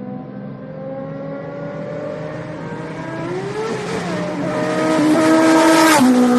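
Superbike engines running and growing louder as they approach, one rising in pitch as it revs. Just before the end the loudest one passes close and its pitch drops suddenly.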